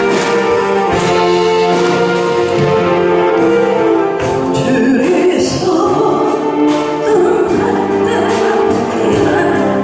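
Saxophone ensemble playing a slow melody in several parts, held notes overlapping, over a light steady beat.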